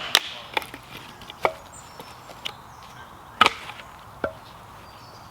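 Firewood being split by hand for a campfire: about five sharp chopping knocks at uneven intervals, the loudest right at the start and about three and a half seconds in.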